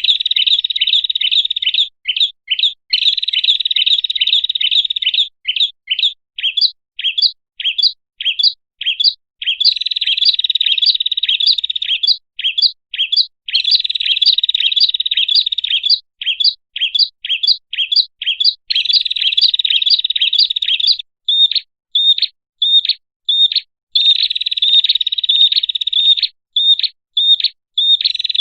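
Prinia (prenjak) song played as a lure call: runs of sharp, high chirps, each note separate, alternating with stretches of fast, dense trilling that last a second or two, over and over.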